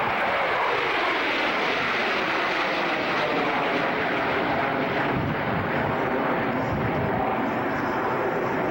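Airplane flying past, its engine roar loud and steady, with the pitch falling over the first couple of seconds as it goes by.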